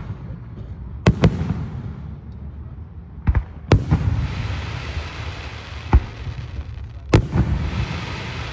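Aerial fireworks shells bursting: about six sharp booms, some in quick pairs, with a hiss lingering after the later bursts.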